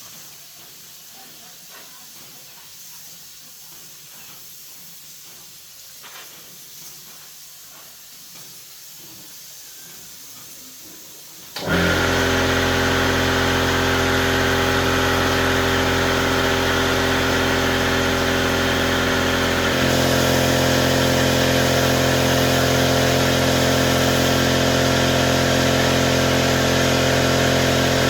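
Faint hiss, then, about twelve seconds in, an electric motor switches on suddenly and runs steadily with a loud, even hum. Its pitch shifts slightly a few seconds before the end.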